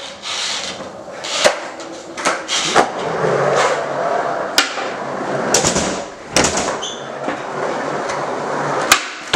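Skateboard rolling on the floor, its wheels making a steady rolling noise, broken by about eight sharp clacks of the board popping and slapping down during trick attempts.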